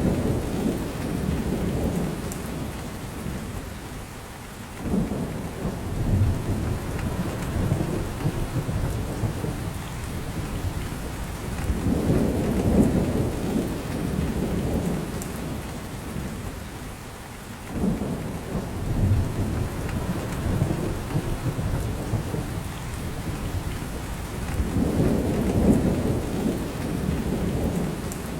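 Steady rain falling on a forest, with drops from the branches, under low rumbles that swell and fade about every six or seven seconds.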